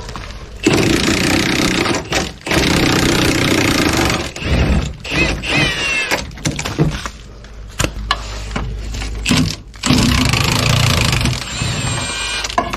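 Impact wrench running in several bursts of one to two seconds on truck bumper nuts, with a brief squeal about five and a half seconds in.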